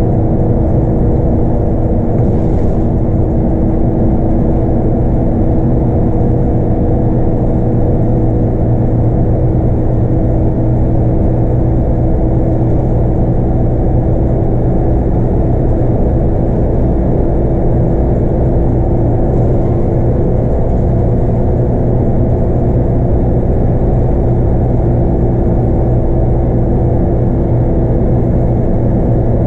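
Scania K230UB bus running steadily, heard from inside the cabin. The 8.9-litre five-cylinder Scania DC9 diesel and driveline give a continuous drone over road rumble, with a couple of tones held at an even pitch.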